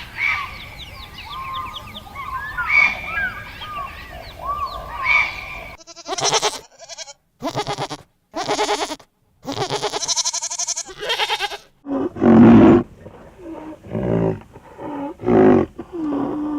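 A series of different animal calls cut one after another: high chirping glides for the first few seconds, then several short calls that start and stop abruptly, then deeper calls near the end.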